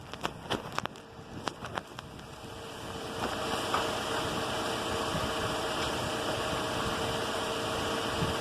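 2018 Toyota Corolla running, a steady whirring hum with a faint steady whine in it that sets in about three seconds in. Before it come a couple of seconds of clicks and rustling.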